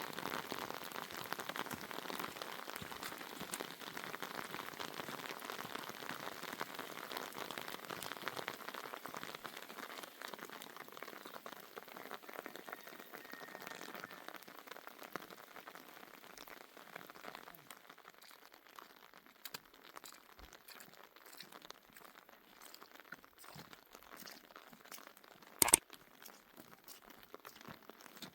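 Rain pattering in a dense spray of tiny drops, heavier at first and thinning after about ten seconds. A single sharp knock comes near the end.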